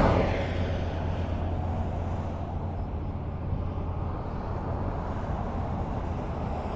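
Highway traffic. A car that has just passed fades away in the first second, leaving a steady low rumble of road noise. Near the end the next vehicle is heard approaching.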